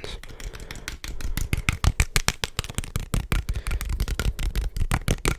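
Rapid ASMR tapping close to the microphone, many quick taps a second, growing louder about a second in.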